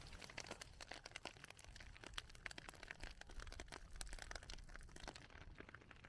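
Cooling lava crust crackling faintly: a dense, irregular run of small clicks and ticks.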